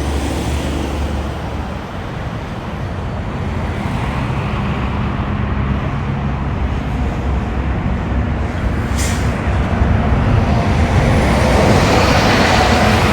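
Diesel semi-trucks running past with a steady low engine drone and road noise. A brief sharp hiss comes about nine seconds in, and the noise builds louder near the end as another truck approaches.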